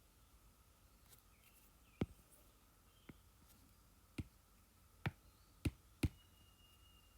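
Five sharp clicks at uneven spacing, the last three close together, from the controls of a digital drawing setup being worked, over a faint steady hum.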